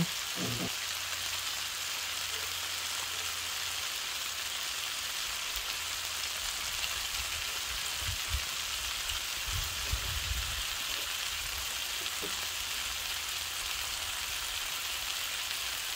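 Stir-fry of eggplant and ground chicken sizzling in an electric skillet: a soft, steady hiss, with a brief low rumble about ten seconds in.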